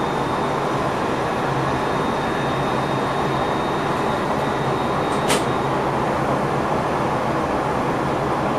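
Steady running noise of a passenger train heard from inside the driver's cab, with a faint thin high whine that fades out a little past halfway. A single sharp click comes about five seconds in.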